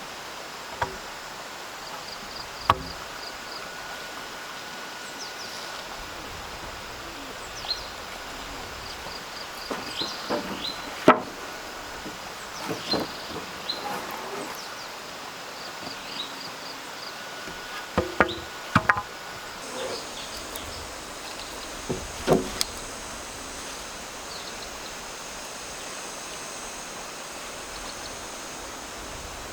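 Scattered sharp knocks and taps, a dozen or so at irregular times, the loudest about 11, 18 and 22 seconds in, over a steady outdoor background with short repeated high chirps.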